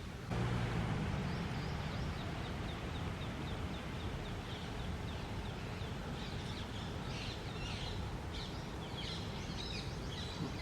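Rose-ringed parakeets calling: a quick run of short, evenly repeated high chirps, then a busier stretch of overlapping calls in the second half, over a steady hum of background noise.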